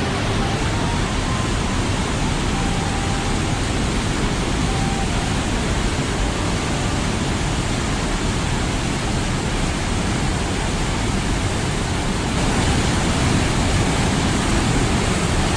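Steady rush of a waterfall's falling water, getting a little louder about twelve seconds in.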